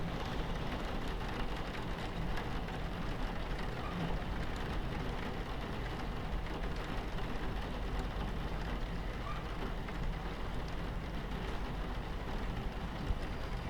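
Steady low rumble of a train running on its tracks, mixed with rain pattering on the carriage window.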